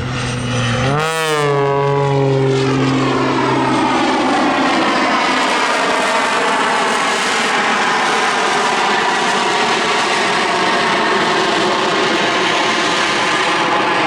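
Jet-assisted Pitts Special aerobatic biplane in flight, its propeller engine and jet engines running at high power. About a second in the pitch wobbles, then it settles into a steady drone of many close tones.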